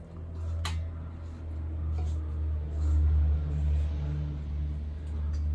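A steady low hum, with a faint click about a second in.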